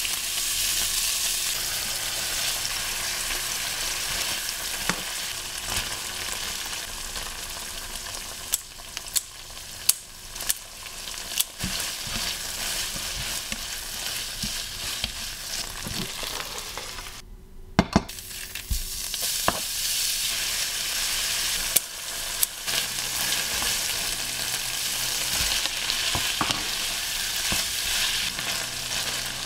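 Ground meat with onion and dried red chilies frying in a nonstick wok: a steady sizzle, with a spatula scraping and clacking against the pan. The clacks come in clusters a third of the way in and again just past the middle, where the sizzle briefly drops out.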